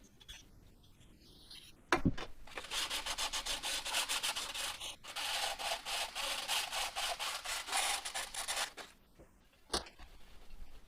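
Rapid back-and-forth scrubbing strokes by hand, about six a second, running for some six seconds. A sharp knock comes just before them and another near the end.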